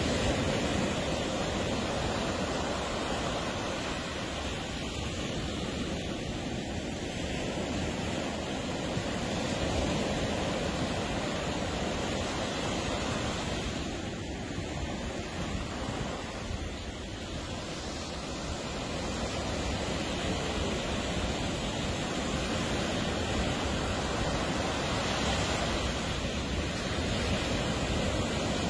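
Ocean surf breaking and washing on a beach: a continuous rushing noise that swells and eases slowly over several seconds.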